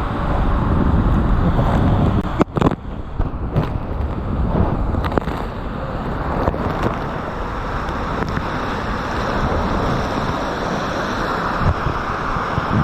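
Steady rushing noise of wind buffeting the microphone mixed with splashing, rushing water, with a few brief knocks a few seconds in.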